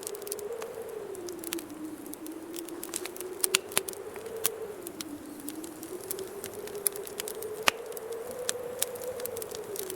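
Wood fire crackling with irregular sharp pops, a few louder than the rest. Under it a winter wind howls as a low moan that slowly rises and falls in pitch.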